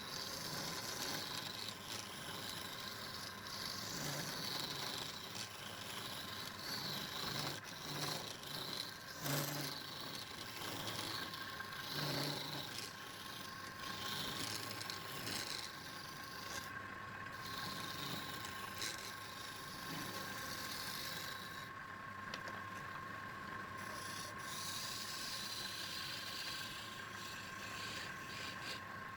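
Abrasive rasping or rubbing on wood, swelling and easing with the strokes, over a steady whine, with a few sharper knocks about a third of the way in.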